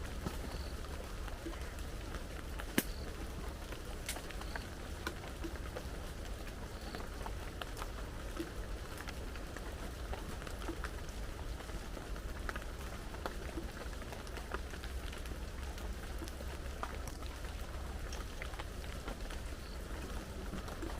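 Steady heavy rain falling, with many scattered sharp drop ticks and one louder crack about three seconds in.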